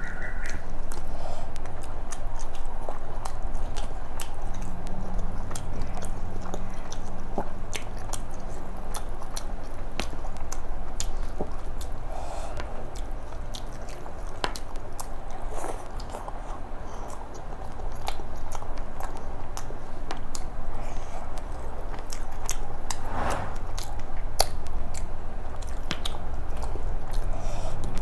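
Close-miked eating sounds: a person chewing a mouthful of chicken biryani, with many sharp mouth clicks and lip smacks.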